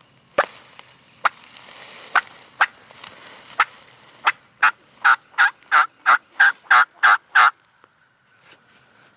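Turkey calling: a few scattered sharp clucks, then a steady run of about ten loud yelps, roughly three a second, that stops abruptly.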